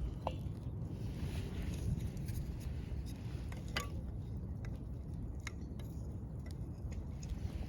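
Scrap-wood campfire crackling, with several sharp pops scattered over a low steady rumble.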